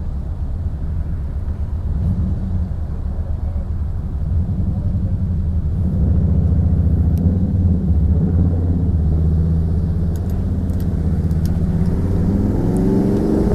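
Low rumble of wind on the microphone and road traffic while riding an e-bike among cars. It gets louder about halfway through, and a rising tone comes in near the end.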